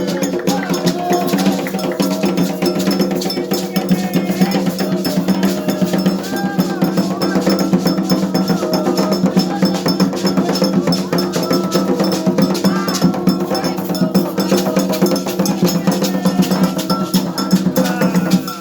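Metal ritual bell, cowbell-like, rung continuously in a fast, even stream of strikes with a steady ringing tone.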